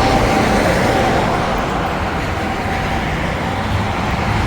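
Steady traffic noise from highway vehicles passing close by, an even rushing sound with no distinct events.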